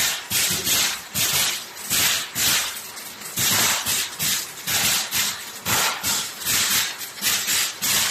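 Aerosol can production line machinery running in a steady cycle, with sharp hissing bursts about twice a second.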